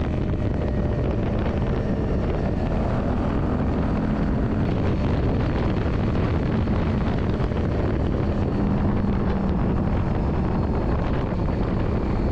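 Yamaha Drag Star 400's air-cooled V-twin engine running steadily, with wind rushing over the microphone.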